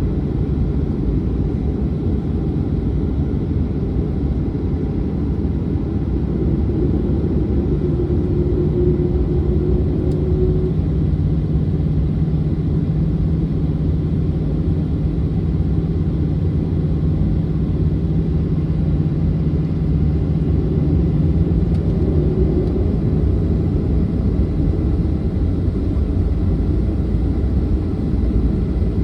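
Boeing 737-900's CFM56-7B jet engines running, a steady low rumble with a steady hum.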